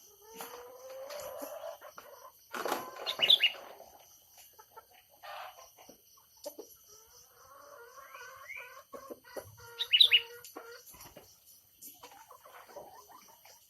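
Birds calling: a rising call about a second long near the start, then short high chirps about three seconds in and again about ten seconds in, with scattered softer calls between.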